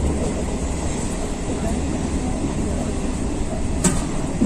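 Interior of a moving suburban electric local train: the steady low rumble of the coach running on the track, with one sharp click about four seconds in.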